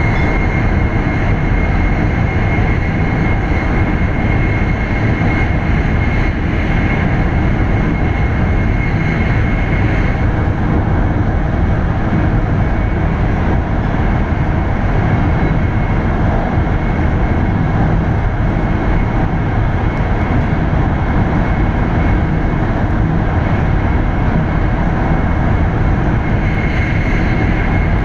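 Shinkansen bullet train running at speed, heard from inside the passenger cabin: a steady, unbroken rushing running noise, heaviest in the low range, with a thin high tone held throughout.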